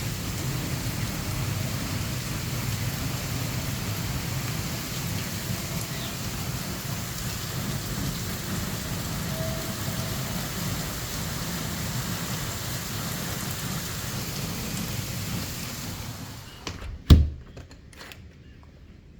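Thunderstorm: heavy rain hissing steadily with a low rumble of thunder underneath. About sixteen seconds in the rain sound drops away abruptly, then a single sharp knock, the loudest sound here, and a few faint clicks.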